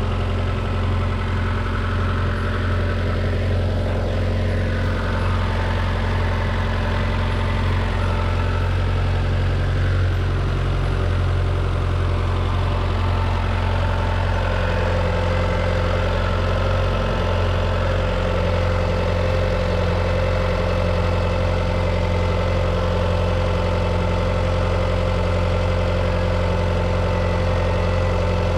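2010 Abarth 500's 1.4-litre turbocharged four-cylinder idling steadily after a fresh oil and filter change.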